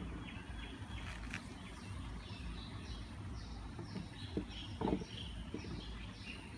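Birds chirping in a run of short high notes over a steady low rumble, with a couple of brief knocks about two-thirds of the way through.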